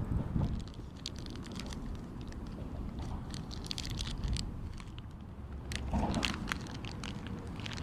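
Irregular bursts of small crunching clicks, in three clusters, over a low wind rumble on the microphone.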